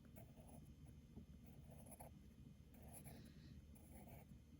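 Faint scratching of a drawing tool on paper: a series of short strokes as curves are sketched in.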